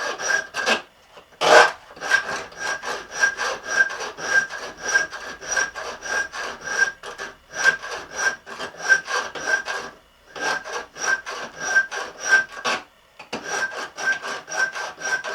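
A hand-held saw blade, its teeth set to cut on the pull, sawing slowly into the wood of a stair tread, with even rasping strokes about three a second and a ringing note from the blade. The strokes stop for short pauses several times, and there is one sharp knock about one and a half seconds in.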